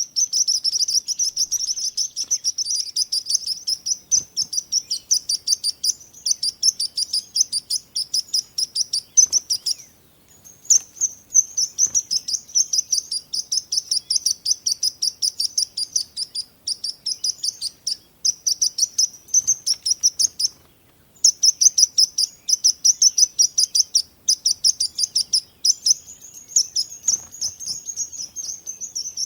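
Small birds chirping in a fast, dense, high-pitched twitter, many chirps a second, breaking off briefly twice, about a third of the way in and again past the middle.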